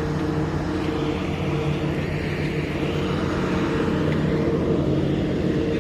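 Towboat's diesel engine running at a steady pace: a constant low drone with a fixed hum.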